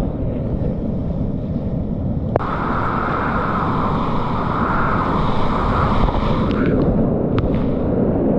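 Rushing river whitewater with heavy wind buffeting on the microphone. A sharp click comes about two and a half seconds in, after which the rushing turns brighter.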